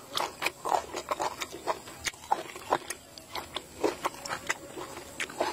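Close-miked eating sounds of a person chewing a spicy egg salad: wet mouth clicks and smacks in an irregular run of several a second.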